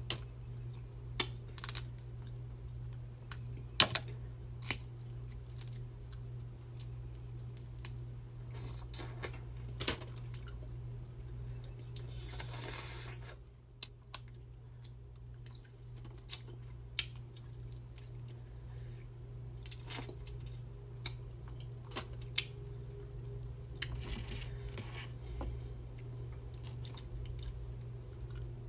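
Close-miked eating sounds from a seafood boil: scattered sharp clicks and cracks from shells and utensils being handled, with chewing. A brief rustling noise comes about twelve seconds in, and a steady low hum runs underneath.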